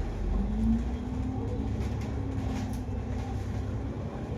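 Double-decker bus engine running with a low rumble, heard from inside the bus, and a whine that rises about a third of a second in and then holds steady.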